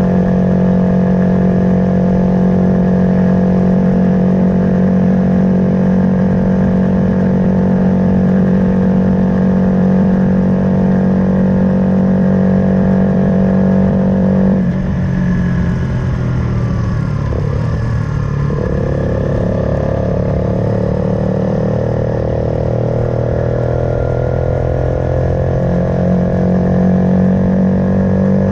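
Suzuki Van Van 125's single-cylinder engine with an aftermarket full exhaust, running at a steady speed under way. About halfway through the throttle is rolled off and the note falls away unevenly, then it picks up again and rises steadily as the bike accelerates.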